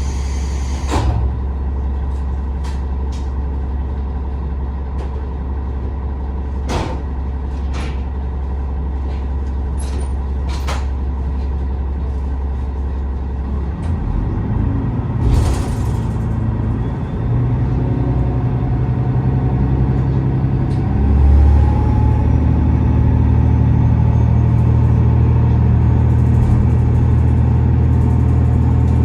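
Diesel engine of a KiHa 47 railcar idling with a low steady hum and scattered clicks. About halfway through there is a short hiss of air, and then the engine revs up and runs louder under load as the railcar pulls away. Near the end a faint whine rises slowly in pitch as it gathers speed.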